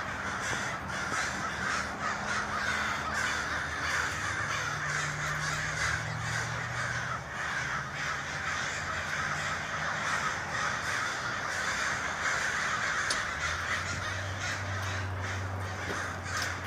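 A large flock of crows cawing together, a dense, continuous chorus of overlapping caws.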